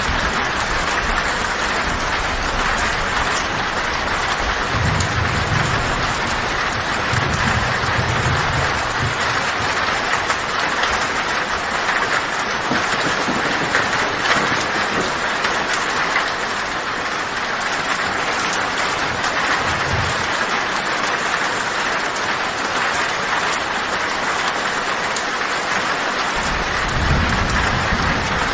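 Heavy rain falling on a tin roof: a steady hiss with scattered sharp drop ticks. Low thunder rumbles come and go a few times, most strongly near the end.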